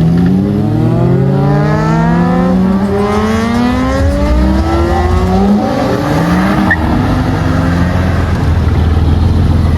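A car engine accelerating hard, its pitch climbing steadily for about five seconds before dropping at a gear change and climbing briefly again, then settling into a low rumble.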